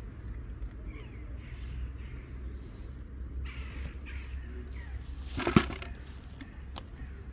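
Crows cawing several times in short hoarse calls over a low steady rumble, with one sharp knock about five and a half seconds in.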